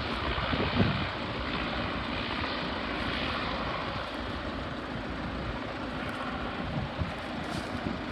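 Airliner engines at an airport, a steady rush of engine noise with no clear tone in it. Wind buffets the microphone with a couple of low thumps, about a second in and near the end.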